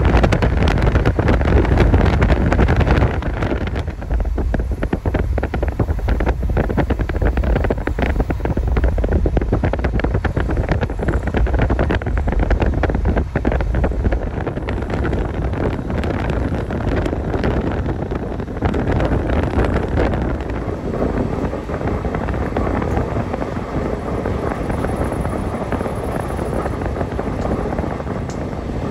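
Passenger train running at speed: a steady rumble of wheels on rail mixed with rushing wind and wind buffeting the microphone. The low rumble is heavier for the first three seconds or so, then eases to an even rush.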